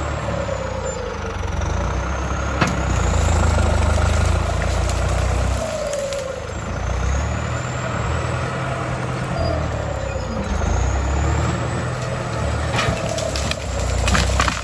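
John Deere farm tractor's diesel engine running steadily with a deep rumble, and a whine that slides down in pitch every three to four seconds as the load changes. A few sharp clicks come near the end.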